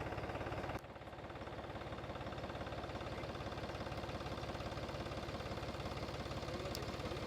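A vehicle engine running steadily with an even low pulse. The sound drops abruptly about a second in and then carries on.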